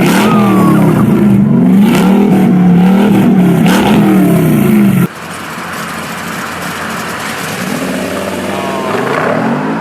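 Devil 16 prototype's 12.3-liter quad-turbo V16 engine being revved up and down in quick repeated blips. About five seconds in the sound cuts abruptly to a quieter, steadier engine sound.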